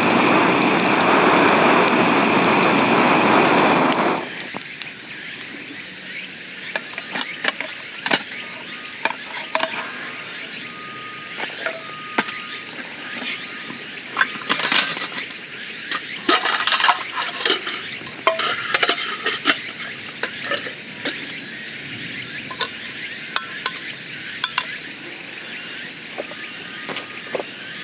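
A loud steady rushing noise for about four seconds that cuts off suddenly, then scattered clinks and knocks of cookware and utensils being handled over a steady high hiss.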